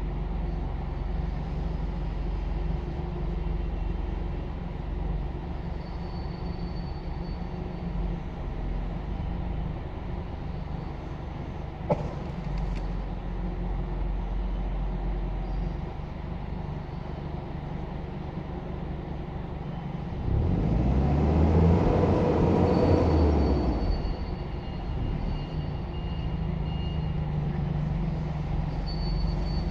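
Engine of a clamp-attachment forklift running steadily, with a single sharp click about twelve seconds in. Past twenty seconds the engine revs up and holds louder for about three seconds before settling back, then rises again at the very end.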